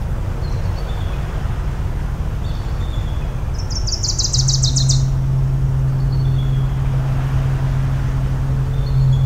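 A foghorn sounds one long, low, steady blast that starts a little under halfway through and holds for about five seconds over a constant low rumble of sea and distant engines. A bird gives a rapid high trill about four seconds in, with faint chirps in the background.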